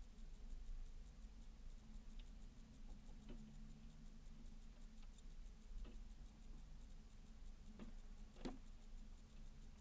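Titmice pecking and hopping on a seed feeder: about five faint, scattered taps and clicks, the loudest about eight and a half seconds in, over a low steady hum.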